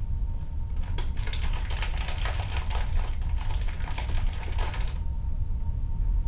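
Steady low rumble of a ship's cabin at sea, with the sea washing against the hull, and a faint steady hum. About a second in, a few seconds of rapid clicking and rattling start, then stop suddenly.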